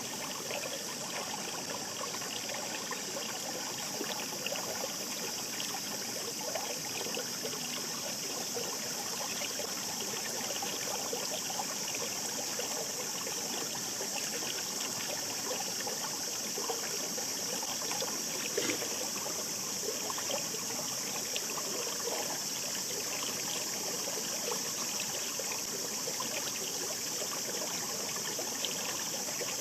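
Shallow mountain stream babbling over stones in a steady rush, with small splashes and gurgles scattered through it.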